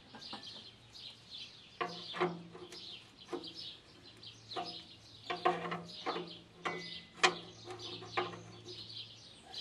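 Small birds chirping in the background, with a series of short knocks and clanks every second or so from about two seconds in.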